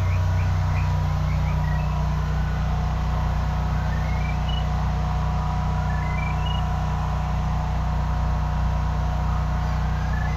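A drain-locator receiver tracking the sonde in a CCTV pipe camera: its electronic tone steps up and then down in pitch several times. An engine hums steadily underneath.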